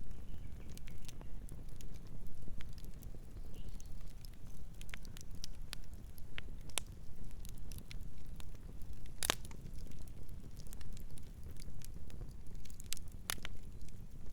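Campfire burning: wood crackling with scattered sharp pops over a low steady rumble, the loudest pop about nine seconds in and another near the end.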